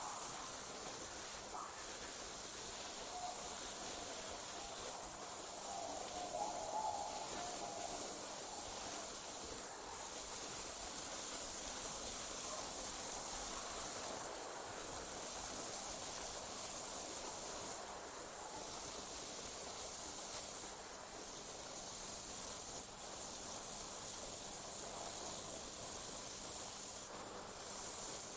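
Night chorus of crickets: a continuous high-pitched trill that briefly drops out every few seconds, over a soft hiss of night air.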